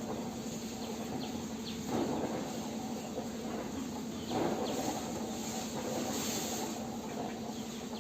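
Small birds chirping in short falling notes over a steady low hum and rushing noise, which swells twice.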